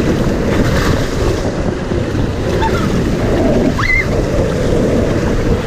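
Water rushing and splashing around a family raft as it runs down a water-park raft flume, with wind buffeting the microphone.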